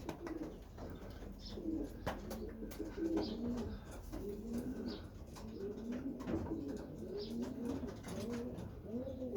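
Racing pigeons cooing in their loft, many overlapping low, rounded coos repeating one after another, with a few light clicks among them.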